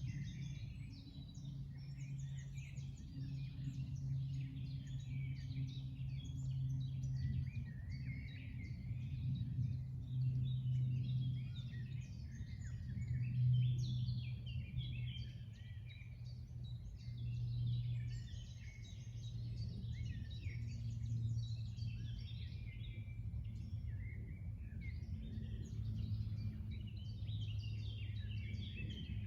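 Chorus of many songbirds singing and chirping at once, thick and unbroken, over a steady low hum.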